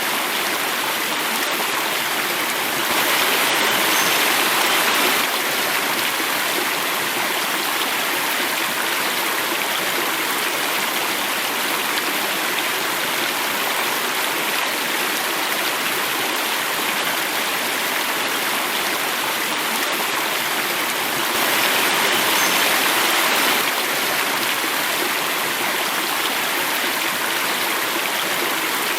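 Water running and falling over rocks in a stream cascade: a steady rushing hiss that swells a little louder twice, for about two seconds each time.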